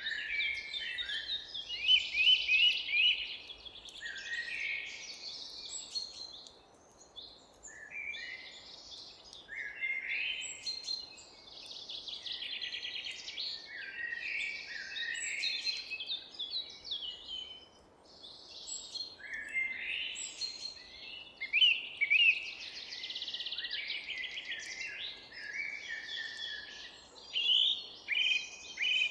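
Several small songbirds chirping and singing at once in a dawn-chorus-like mix of quick trills and rising and falling notes, with short lulls about 7 and 18 seconds in, over a faint steady hiss of background noise.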